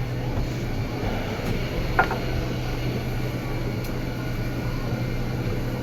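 Steady low mechanical hum of a cruise ship's machinery, with a single short clink about two seconds in.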